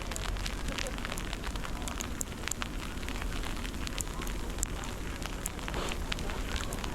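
Winter-storm wind buffeting the microphone in a low rumble, with dense, irregular crackling and ticking, typical of snow and ice striking the mic or footsteps crunching in snow.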